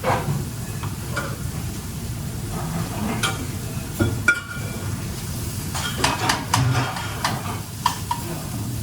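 Food sizzling as it fries in a pan, with a utensil knocking and scraping against the pan at scattered moments, most often in the second half.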